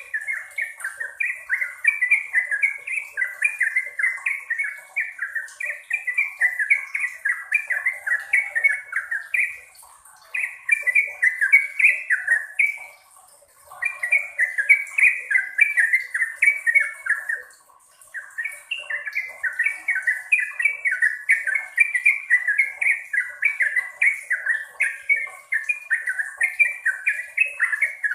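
Yellow-vented bulbul (trucukan) singing long, fast runs of short repeated notes, with three brief pauses between runs.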